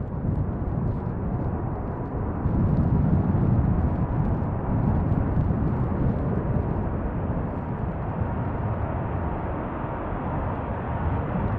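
Airbus A380-800 airliner's four jet engines rumbling steadily as it comes in to land, with a faint steady whine, swelling louder about two and a half seconds in.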